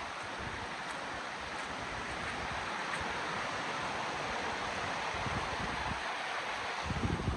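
River water rushing steadily over its bed. Near the end, a low rumble of wind buffets the microphone.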